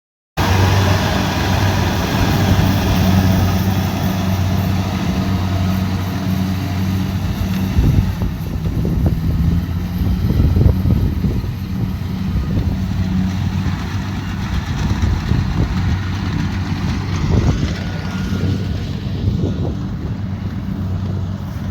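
Kubota DC70 Pro combine harvester running steadily with a deep engine hum over a mechanical rush, with irregular rattles and knocks through the middle.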